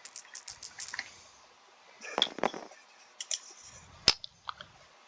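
Small hard clicks and a brief clatter of dice and plastic game pieces being handled on a table: a quick run of clicks at the start, a short rattle about two seconds in, and a single sharp click near the end.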